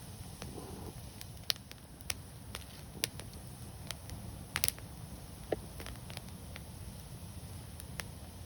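Wood fire burning: a steady low rumble with several sharp, irregular crackles and pops, one about a second and a half in and a quick double pop a little past the middle.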